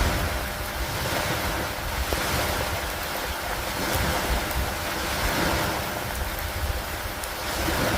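Steady rain falling on a wooden dock, a continuous hiss that swells and eases every couple of seconds, with a low rumble underneath.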